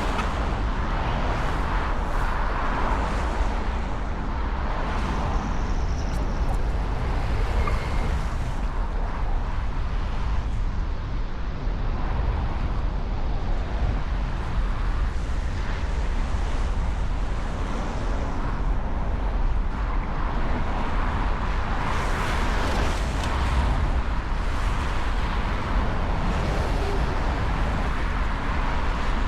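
Steady outdoor background noise, a continuous hiss with a heavy low rumble, without distinct events.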